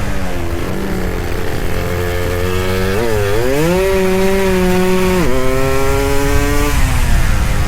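Suzuki Satria 'Lumba' two-stroke motorcycle engine running hard on the road. About three seconds in the revs dip and climb through a gear change, hold high, drop suddenly at the next shift a couple of seconds later, then fall away near the end.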